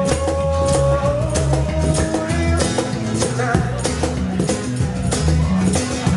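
Small live band playing: guitar, bass guitar and cajon keep a steady beat. A long held note carries over the first couple of seconds.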